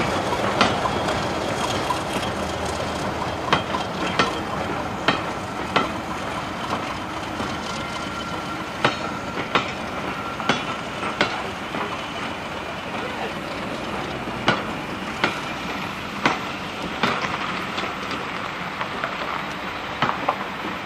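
Passenger coaches rolling slowly over rail joints, the wheels giving sharp clicks in pairs, one pair per bogie, with longer gaps between the pairs, over a steady rumble of the moving train.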